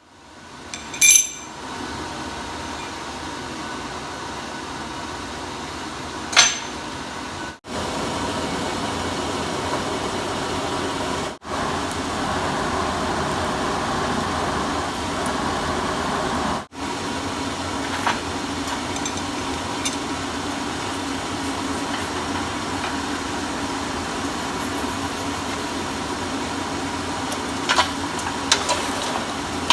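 A steady mechanical whirring hum that cuts out briefly three times. Over it comes a ringing metallic clink about a second in, another about six seconds in, and a few light metal clicks near the end.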